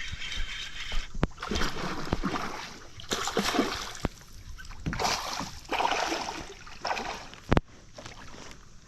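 Water splashing and sloshing around a kayak, with a few sharp knocks on the hull, the loudest near the end.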